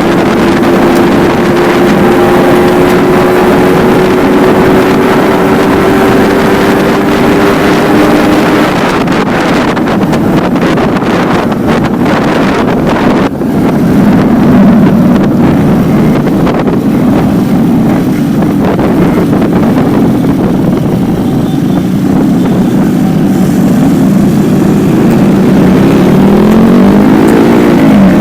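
Yamaha RX-King's two-stroke single-cylinder engine under way, heard through a stock silencer with only the inner filter fitted. The engine note rises slowly over the first several seconds, then turns rougher, with wind on the microphone. Near the end the pitch dips and climbs again.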